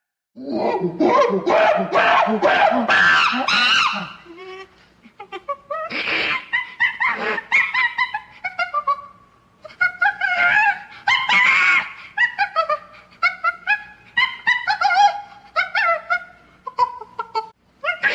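Monkey calls: runs of short, high-pitched squeals and chattering cries that sweep up and down in pitch, broken by brief pauses.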